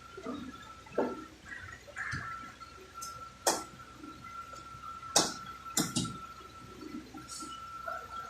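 A few sharp knocks, the loudest about three and a half, five and six seconds in, over a faint steady high-pitched tone.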